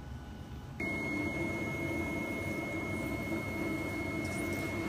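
A machine switches on about a second in and runs steadily: an even whir with a thin, steady high whine over it, as the UV printer's fans and cooling circulation run.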